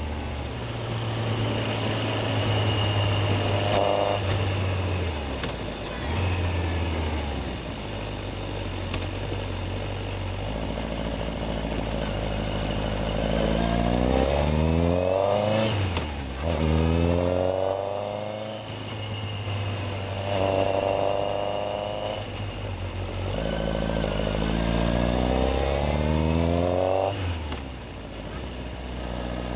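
Yamaha XJR1300's air-cooled inline-four engine, heard from the bike, running steadily at first and then pulling away several times, its pitch rising through each gear and dropping at each shift.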